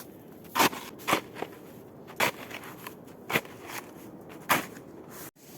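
Small shovel digging into snow, with a crunching stroke about once a second, five in all.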